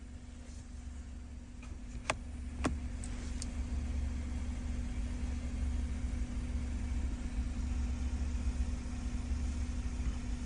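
Low, steady vehicle engine idling, with a constant hum above it that grows slightly louder. Two sharp clicks come about two seconds in, half a second apart.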